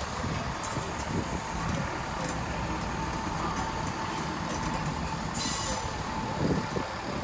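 GWR Turbo diesel multiple unit running slowly past over the pointwork: a steady rumble of wheels and engine with a thin, steady wheel squeal and scattered clicks from the rail joints. A short hiss comes about five and a half seconds in.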